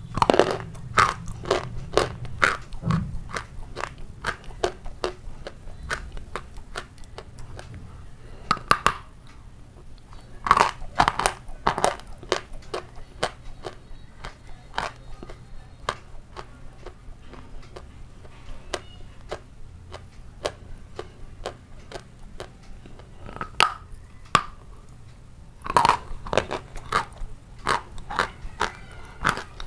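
Close-miked crunching as a person bites off and chews pieces of a hard, dry white block: sharp crisp cracks with quieter crackly chewing between. The bites come loudest right at the start, about nine and eleven seconds in, and again around twenty-six seconds in.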